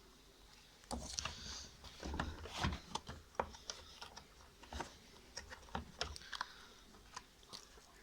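Irregular clicks and light knocks of hard plastic parts being handled, as a washing machine's drain-valve rubber is fitted back into place. A busier stretch of rustling and low bumps comes from about one to three seconds in.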